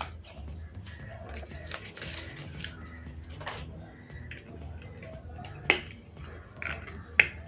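Paper leaflets and cardboard packaging being handled: light rustling with a few sharp clicks or taps, the loudest about two-thirds of the way through and another near the end, over a low steady hum.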